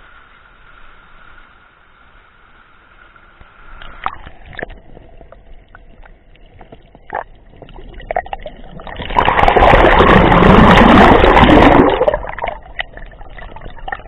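Water splashing and sloshing, with a few knocks. It swells into a loud rush for about three seconds in the second half, then falls back.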